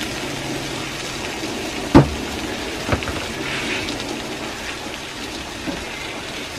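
Potato chunks and egg sizzling as they fry in a small pan on a gas stove, a steady hiss, with one sharp knock about two seconds in and a lighter one about a second later.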